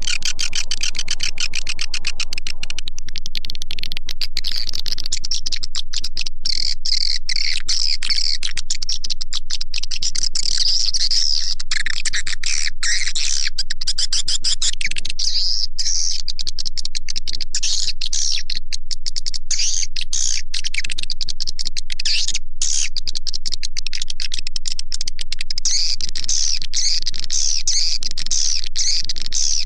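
Swiftlet lure call (suara panggil walet): a loud, continuous mass of rapid, high twittering chirps of edible-nest swiftlets, a processed recording made for playback from swiftlet-house speakers to attract the birds.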